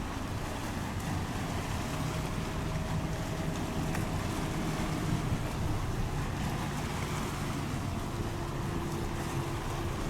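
Steady hum of a boat's engines, with water noise and wind buffeting the microphone.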